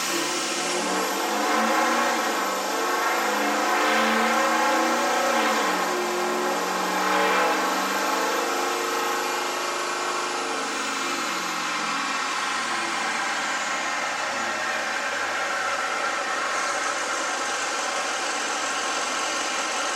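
Ford F350 pickup engine pulling hard on a chassis dyno, its revs climbing for about ten seconds with a high whine rising alongside, then easing off and settling to a steady lower run for the rest.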